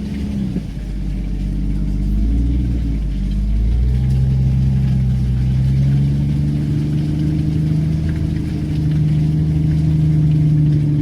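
Off-road vehicle's engine pulling at low speed through deep ruts. It starts as a low rumble with a wavering pitch, then settles about four seconds in into a steady drone held at higher revs.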